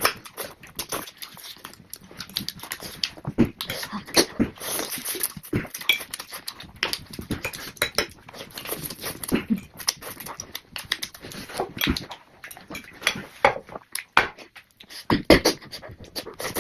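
Close-up eating sounds of pork chowmein noodles being eaten fast: wet slurps, smacks and chewing clicks in a dense, irregular run.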